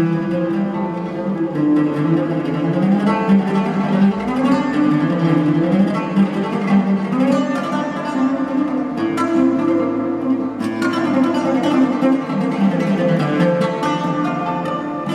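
Oud played with a plectrum in a continuous stream of quick plucked notes, an Arabic melodic improvisation.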